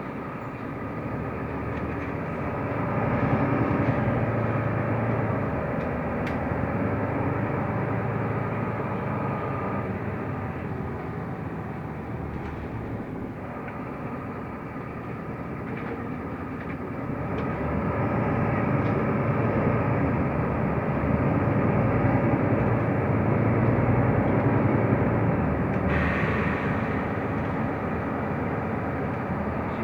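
Mercedes-Benz O345 Conecto LF city bus driving, heard from inside the cabin: diesel engine and road noise, louder as the bus pulls harder about three seconds in and again from about eighteen seconds in, with a brief hiss near the end.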